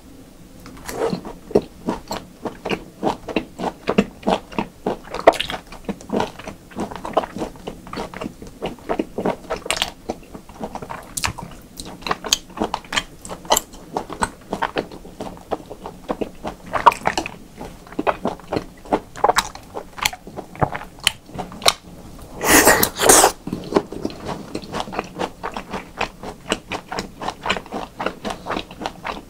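A person chewing raw beef close to the microphone, about three chews a second. About three-quarters of the way through there is a louder, noisy burst lasting under a second.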